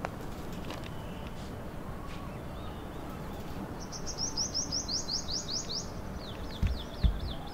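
A bird singing fast runs of repeated high chirps, about six a second, over a steady outdoor hiss. Two low thumps come near the end.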